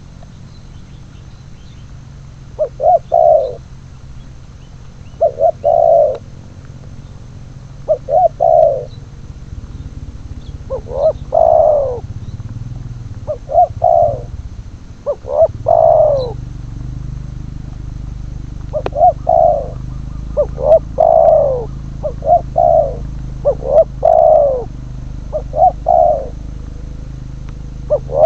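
Spotted doves cooing, repeating their phrase of short notes and a longer falling note every couple of seconds. About halfway through the calls come closer together and overlap, as if two birds answer each other. A steady low rumble runs underneath.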